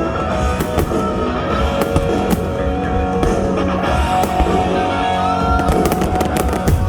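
Rock music with guitar and drums, mixed with fireworks bursting overhead; sharp bangs come scattered through it, several in quick succession near the end.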